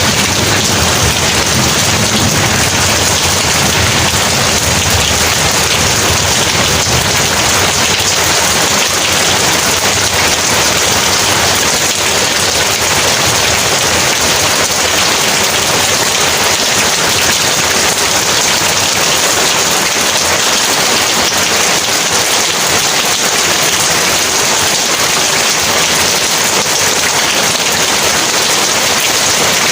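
Heavy rain falling steadily, a dense even hiss. A low rumble of thunder dies away over the first several seconds.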